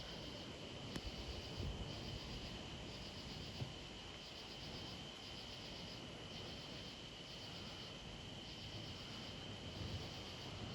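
Evening insect chorus: a faint, steady high-pitched trill, with a pulsed chirping that comes in half-second bursts about once a second.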